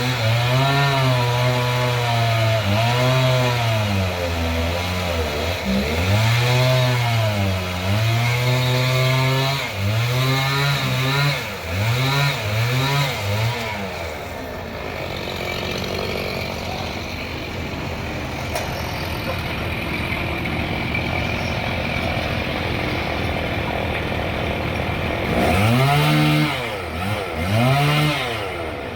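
A saw's small engine cutting trembesi wood, its pitch dipping and recovering again and again as it works under load. About halfway through it gives way to a steadier run of machine noise for around ten seconds, and the dipping pitch comes back near the end.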